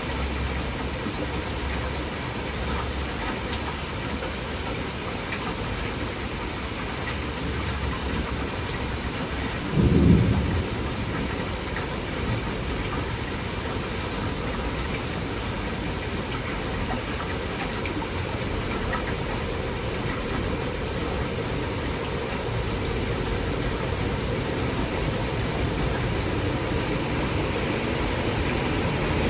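Heavy torrential rain falling steadily, with a brief low boom about ten seconds in that is the loudest moment.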